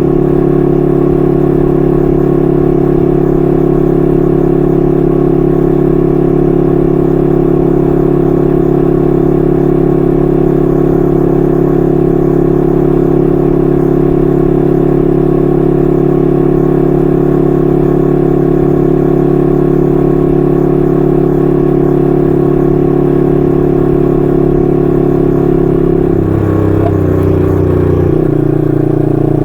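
1968 Honda Dream CL250's 250cc parallel-twin engine running through its stock mufflers at a steady cruise, an even exhaust note; near the end the note changes and settles at a different pitch.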